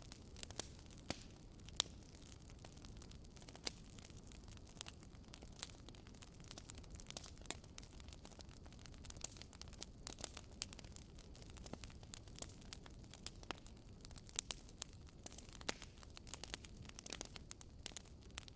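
Wood fire burning in a fireplace, with irregular sharp crackles and pops of the firewood over a low steady rush of flame.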